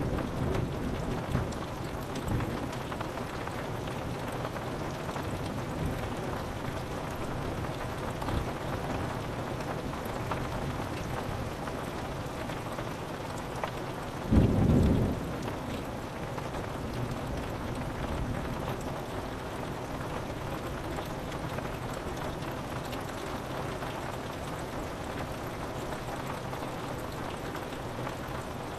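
Steady rain on a window pane, with low rumbles of thunder in the first couple of seconds and a short, loud crack of thunder about halfway through.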